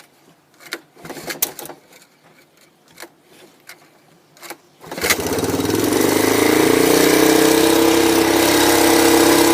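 Yamaha three-wheeler engine cold-started without choke: a few light clicks and knocks, then about five seconds in the engine catches and runs steadily at a fast idle.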